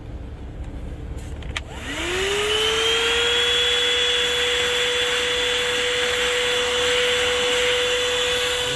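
Corded car vacuum cleaner (TWC 01) switched on with a click about a second and a half in. Its motor spins up with a quickly rising whine, then runs at a steady high whine over the rush of air through the nozzle.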